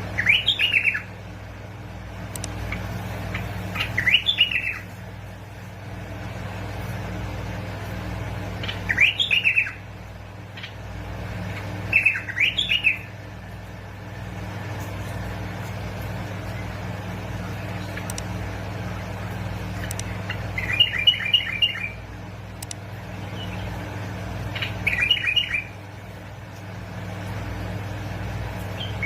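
Bulbul singing short, bubbly whistled phrases, six of them a few seconds apart, over a steady low hum.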